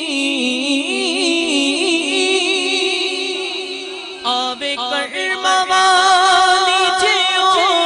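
Naat being sung: drawn-out, wavering vocal melody over sustained backing voices, with no words made out. About four seconds in, a stronger vocal phrase comes in and gets louder.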